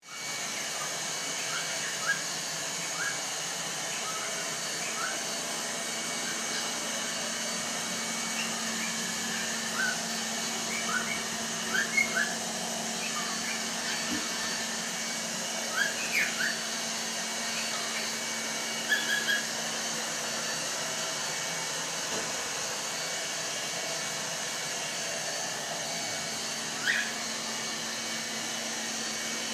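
Cockatiel giving short, rising chirps and whistles, scattered at irregular intervals and loudest around the middle, over a steady hiss with a faint hum like a fan or appliance running.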